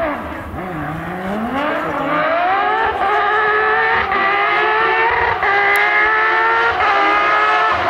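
Porsche 911 rally car's flat-six engine accelerating hard, its revs climbing, then held high through three quick upshifts in the second half.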